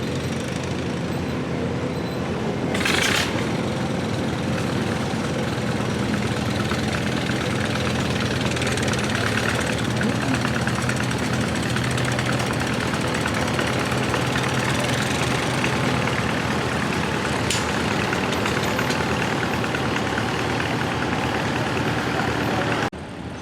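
Tractor engine running steadily, with a short sharp hiss about three seconds in.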